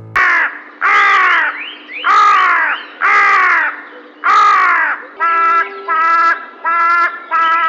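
Bird calls: five drawn-out calls, each falling in pitch, then four shorter calls held at a steadier pitch.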